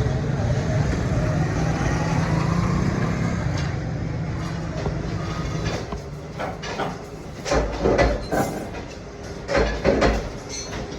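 A machine running with a whine that rises in pitch over the first few seconds, then dies down, followed by two bursts of loud clattering knocks.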